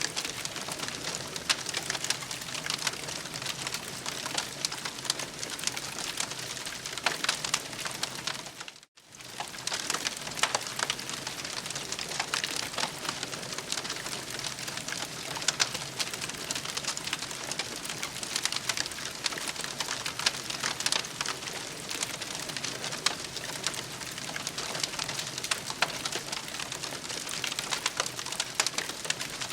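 Campfire crackling: a steady hiss thick with small sharp pops and snaps. The sound drops out for a moment about nine seconds in.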